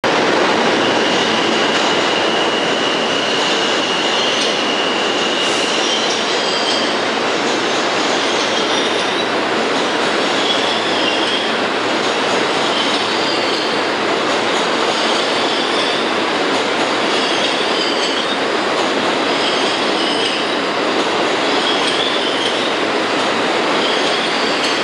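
An R160A New York City Subway train running through a station at speed, with a steady loud rumble and wheel squeal. A high squeal is held for the first few seconds, then shorter squeals come again and again.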